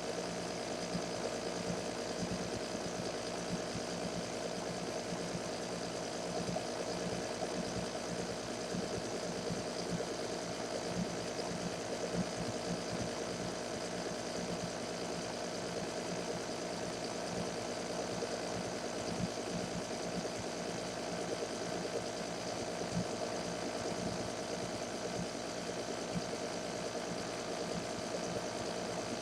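Small metal-working lathe running steadily, its motor and gearing giving a constant hum and whine with a fine rapid flutter.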